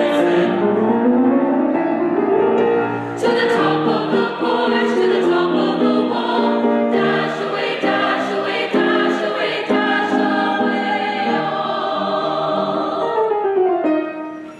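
Choir singing, dipping briefly near the end.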